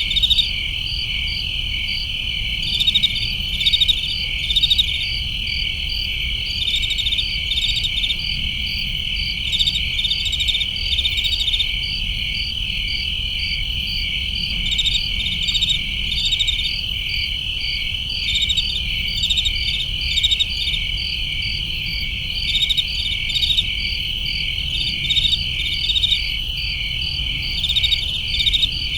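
Crickets chirping: a steady high trill, with clusters of quick pulsed chirps coming and going over it, and a faint low rumble underneath.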